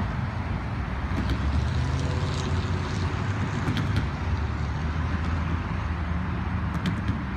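Freight cars rolling away along the track: a steady low rumble of steel wheels on rail, with a few faint clicks.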